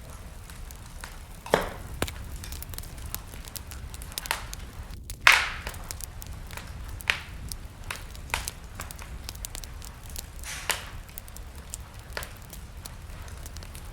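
Wood fire burning in a fireplace, crackling with sharp, irregular pops, the loudest about five seconds in, over a low steady rush of flame.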